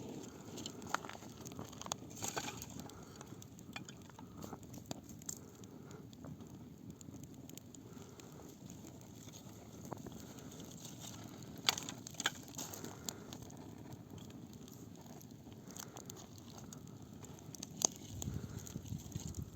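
Wood campfire burning with a steady low rumble of flames and scattered sharp crackles and pops, a cluster of louder pops about two-thirds of the way through.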